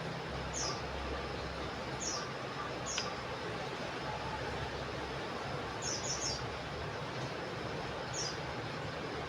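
Common iora (cipoh) calling: short, high, falling notes every second or two, with a quick run of three about six seconds in, over a steady hiss.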